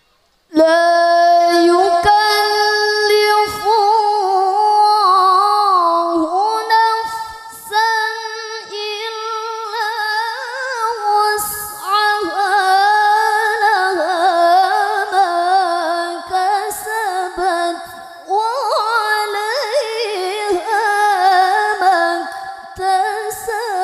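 A woman reciting the Quran in the melodic qiroah (tilawah) style: one high voice holding long, ornamented notes that waver and glide in pitch, with short pauses for breath between phrases. It starts about half a second in.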